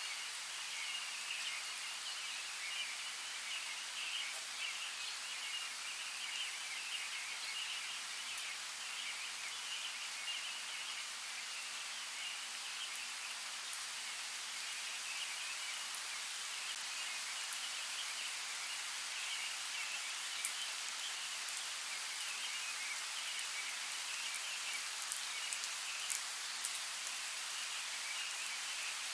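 Steady rain falling, with scattered sharp ticks of single drops, more of them near the end.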